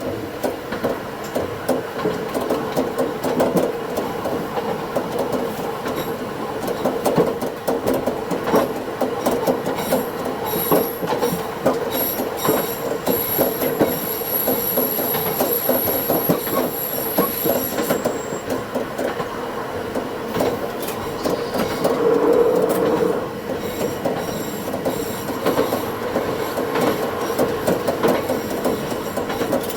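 Diesel railcar running along the track, its wheels clicking and rattling over the rails. A thin, high squeal of wheels on rail comes in about ten seconds in and fades out past the middle. Everything is sped up to double speed, so it sounds quicker and higher than normal.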